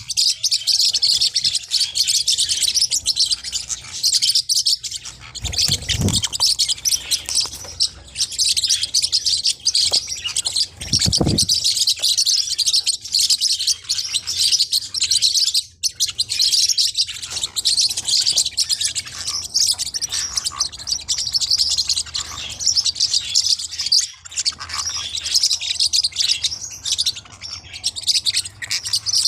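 Forpus parrotlets chirping and twittering continuously in quick, high-pitched calls. Two short low thuds come about six and eleven seconds in.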